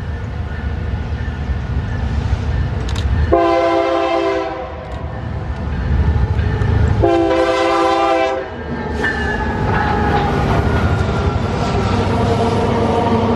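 Locomotive horn sounding two blasts of about a second and a half each, a few seconds apart, over the low rumble of a train. After the second blast, steady ringing tones continue over the rumble as the train runs on.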